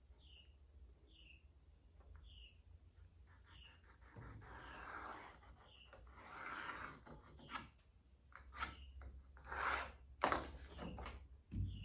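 Thin plywood pieces being handled on a workbench: rubbing and scraping with several knocks, the loudest around two-thirds of the way through. A faint high, falling chirp repeats about once a second in the background.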